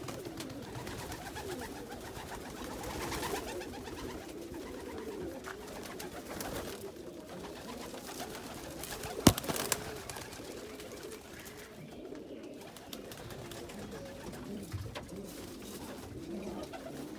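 Domestic pigeons cooing continuously, many low, wavering coos overlapping. One sharp click or knock about nine seconds in.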